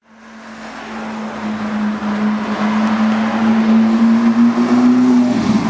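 Ferrari 458 Italia's 4.5-litre flat-plane V8 running at steady mid revs as the car approaches, its note fading in over the first second and creeping up slightly in pitch. About five and a half seconds in the note breaks and dips as the car drives past.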